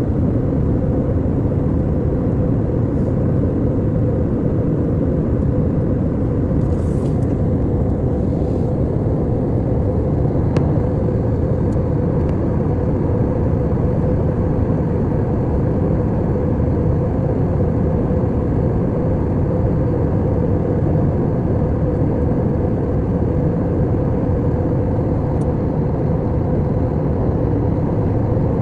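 Airliner cabin noise in flight: the steady, deep drone of the jet engines and rushing air, unchanging throughout, with a few faint clicks about a third of the way in.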